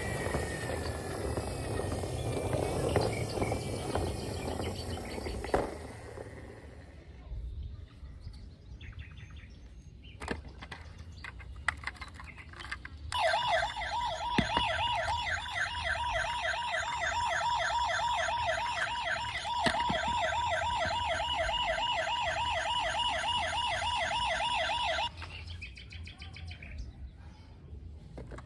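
A toy emergency vehicle's electronic siren sounds a fast warbling wail for about twelve seconds, switching on abruptly about halfway through and cutting off suddenly near the end. Before it there is a few seconds of mixed background noise, then scattered light clicks.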